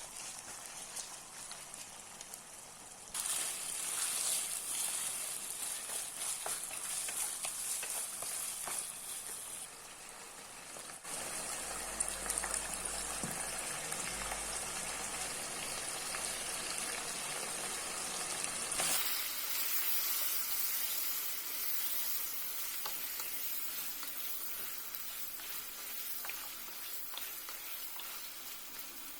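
Food sizzling and frying in hot oil in a pan while being stirred. The sizzle changes abruptly in loudness and tone several times, about three, eleven and nineteen seconds in.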